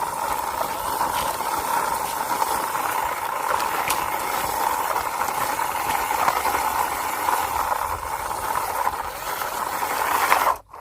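Steady rattling hiss of a toy auto rickshaw's wheels rolling along a wall as it is pushed by hand, cutting off abruptly near the end.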